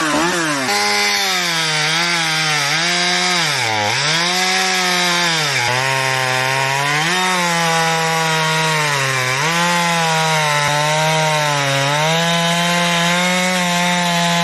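Two-stroke gasoline chainsaw running at high revs while cutting into wood. Its engine pitch sags and recovers several times as the chain takes load, deepest about four seconds in.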